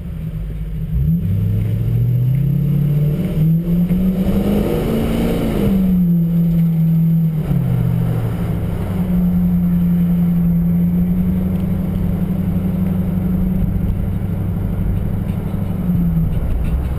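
Stock Jeep Grand Cherokee WJ's 4.7-litre HO V8 and stock exhaust, heard from inside the cabin while driving. The engine note climbs in stages for the first five seconds or so and falls back, then settles into a steady drone from about nine seconds in.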